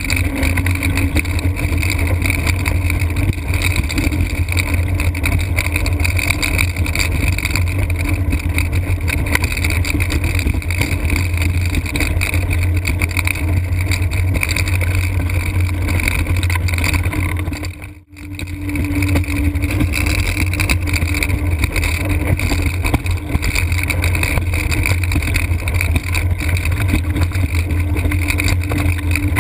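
Blokart land yacht sailing fast: heavy wind buffeting the microphone over the hum of its wheels rolling on airfield pavement, with a faint steady whine. The sound drops out for an instant about two thirds of the way through.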